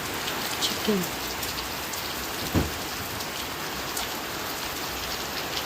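Steady heavy rain pouring down, with one brief thump about two and a half seconds in.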